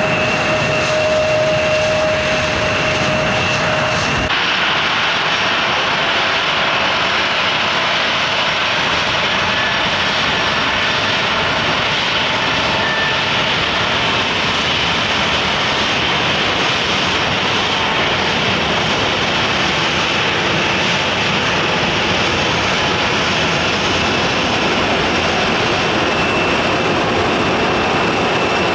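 Jet airliner engines running close by: a loud, steady rush with a steady whine in the first few seconds. The sound changes abruptly about four seconds in, then continues as a steady engine rush.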